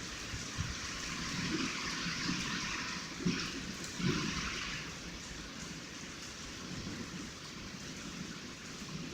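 Heavy rain falling, a steady hiss, with a couple of soft knocks about three and four seconds in.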